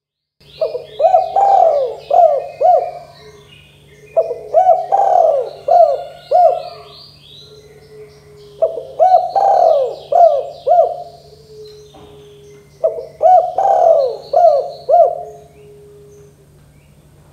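Spotted dove (tekukur) cooing: four phrases of several quick coo notes, repeated about every four seconds, starting about half a second in. Fainter high chirping runs over the coos.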